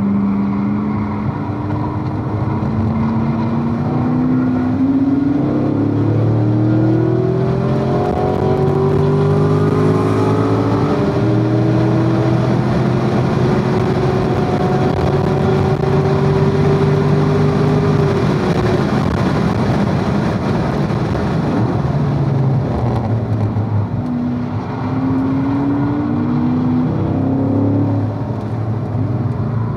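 2016 Corvette Z51's 6.2-litre V8, heard from inside the cabin, accelerating hard: the pitch climbs through third, shifts into fourth and keeps rising to high revs. About two-thirds of the way through it falls away under braking, with downshifts, then climbs again on the power near the end.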